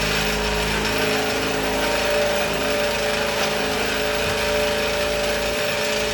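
Power tool running steadily under load, cutting through a PVC gutter downpipe, its pitch shifting slightly about halfway through; it cuts off abruptly at the end.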